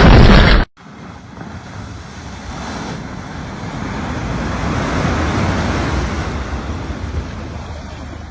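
A loud sound cuts off abruptly under a second in. Then road traffic noise swells to a peak about halfway through and fades again, like a vehicle passing.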